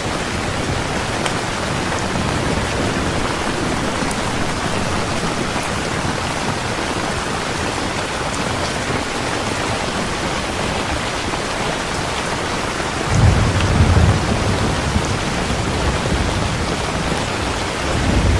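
Heavy rain falling steadily, with a roll of thunder rumbling in about two-thirds of the way through and another starting near the end.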